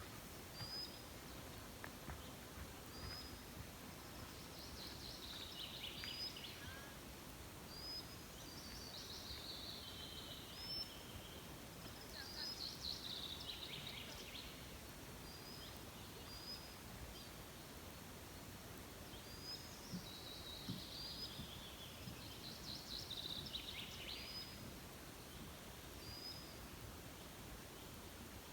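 Songbirds singing. A short high call note repeats every second or two, and several falling song phrases of about two seconds each come in between, over a faint low background rumble.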